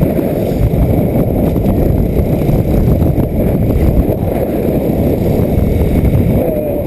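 Steady wind buffeting on the microphone of a motorcycle rider at road speed, mixed with the motorcycle's running noise.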